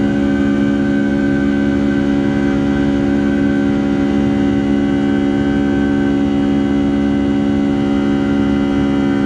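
Rolls-Royce RB211-535 jet engines of a Boeing 757-200 heard from inside the cabin: a steady drone made of several held tones over a low rumble, with no change in pitch.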